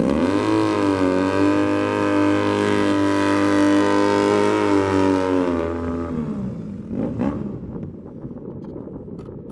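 Vehicle engine revved up and held at a steady high pitch for about five seconds, then dropping back, followed by a rougher, unpitched rumble with a single click.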